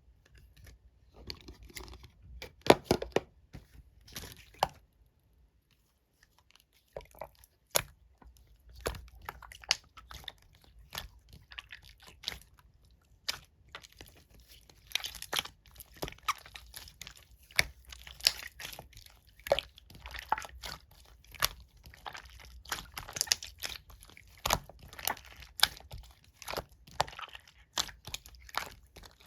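Green slime being squeezed and pressed by hand, making irregular sharp crackling clicks and pops. There is a brief pause of about two seconds a few seconds in.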